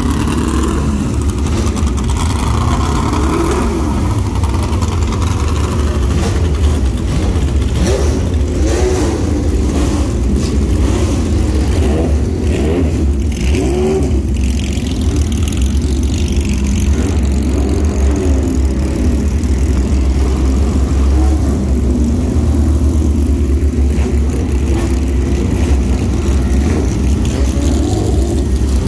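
Ford GT40 race car's V8 running loud at a rough idle, revved in short swells again and again as the car moves off.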